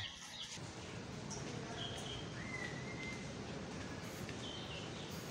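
A few short, high bird chirps, three thin notes spread across a few seconds, one of them rising slightly, over a steady low hiss of background noise.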